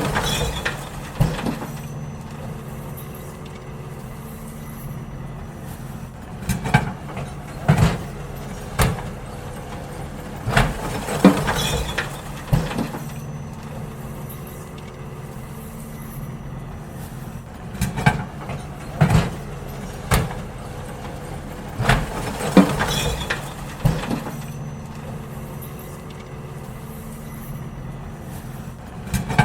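Garbage truck idling with a steady low engine hum while emptying wheelie bins. Clusters of clattering bangs and knocks come every few seconds as the bins are lifted, shaken out and set back down.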